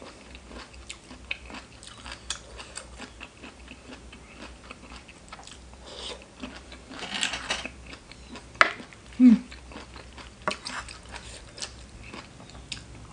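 A person chewing and crunching a mouthful of spicy seafood papaya salad with raw vegetables, close to the microphone: wet smacks and crisp crunches, with a louder burst of crunching about seven seconds in and a short hum a couple of seconds later.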